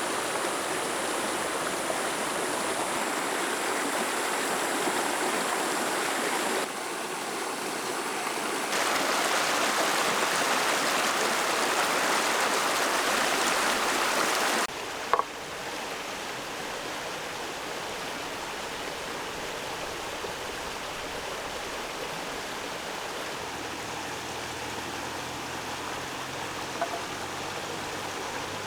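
Steady rushing sound of flowing water. It changes level abruptly about 7, 9 and 15 seconds in, loudest between about 9 and 15 seconds, with a single sharp click just after the last change.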